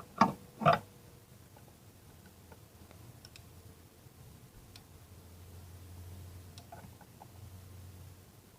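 Faint, scattered small clicks and ticks of hand tools working on metal parts, with two louder knocks in the first second, as the new throttle position sensor's bolts are tightened to a low torque.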